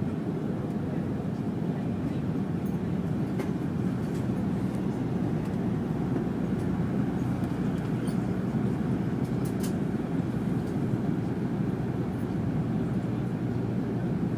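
Steady cabin noise inside a Fokker 100 airliner in flight: the low rumble of its rear-mounted Rolls-Royce Tay turbofans and the airflow, holding at an even level.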